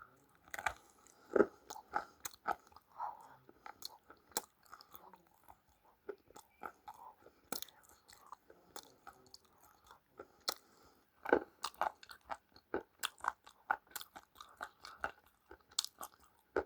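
A person chewing crunchy food close to the microphone: a stream of irregular sharp crunches, with louder bites about a second and a half in and again about eleven seconds in.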